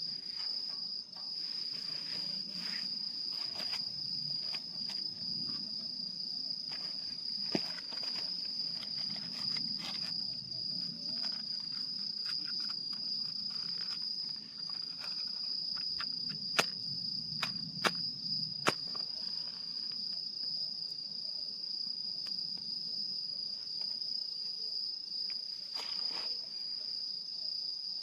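Crickets chirring in one unbroken high trill, over the soft low rush of a small wood fire in a fire pit, with a few sharp crackles and pops from the burning wood, several close together a little past the middle.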